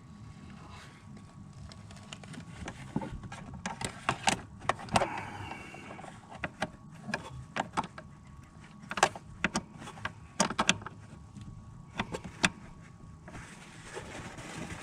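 Scattered clicks and knocks of tools and parts being handled, with a brief scrape about five seconds in, over a steady low hum.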